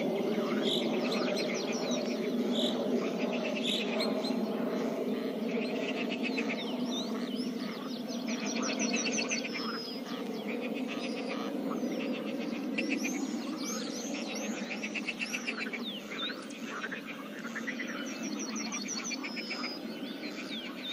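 Pond ambience: a dense chorus of frogs calling, with birds chirping and trilling over it in short rapid runs and quick glides.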